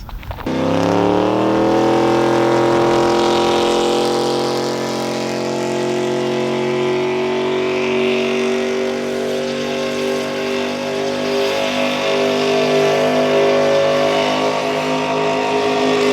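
Truck engine doing a burnout: it revs up sharply about half a second in and is then held at high revs, with the spinning tyres hissing and squealing against the pavement.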